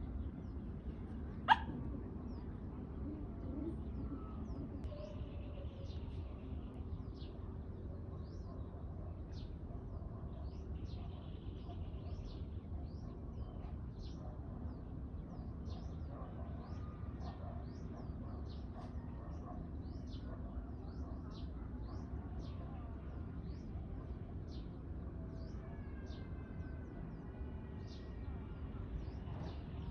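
Birdsong at dawn: many short, high chirps repeating over a steady low rumble, with one sharp, loud sound about a second and a half in.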